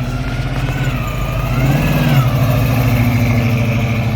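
Car engine running loudly, its pitch and level swelling up and falling back once about two seconds in, as in a short rev.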